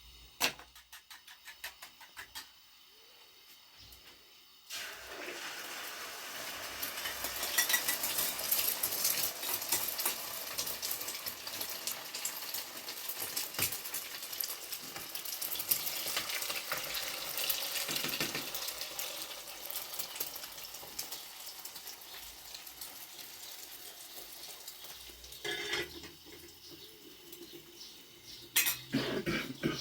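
Kitchen sounds: a few light clinks of dishes, then from about five seconds in a steady splashing hiss with many small utensil clinks for some twenty seconds, fading near the end.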